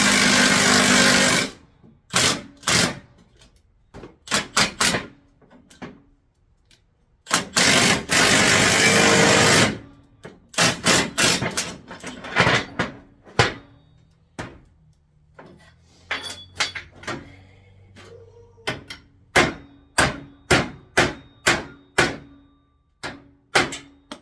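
Air tool running in two bursts of about two seconds each, then a run of hammer blows on metal, about two a second near the end, as old upper control arm bushings are driven out.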